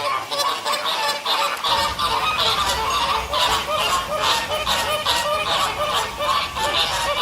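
A flock of geese honking, with many short calls overlapping in quick succession.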